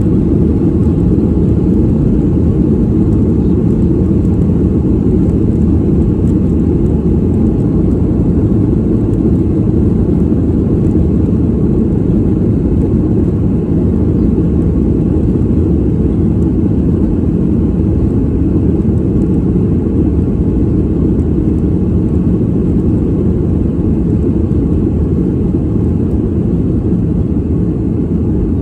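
Airplane cabin noise in flight: a steady, deep, unbroken drone of engines and airflow, heaviest in the low end.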